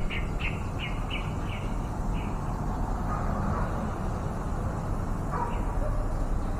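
A bird chirping: a quick run of about seven short, high chirps that fade out over the first two seconds, then a few lower single calls later, over a steady low background rumble.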